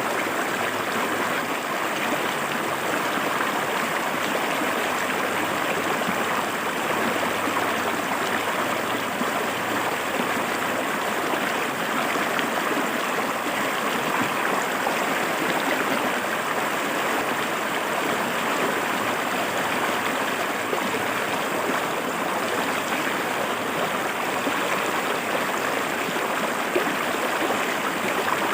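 Shallow river water running over rocks, a steady rushing and gurgling with no change in level.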